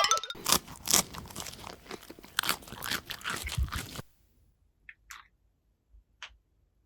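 Crunchy bites and chewing, an eating sound, that stop about four seconds in, leaving only a few faint ticks.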